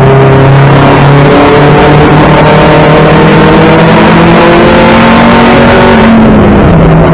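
1992 Toyota Celica GT race car's four-cylinder engine, heard from inside the stripped cabin, pulling hard and loud with its pitch climbing steadily for about five seconds. About six seconds in, the engine note drops back down.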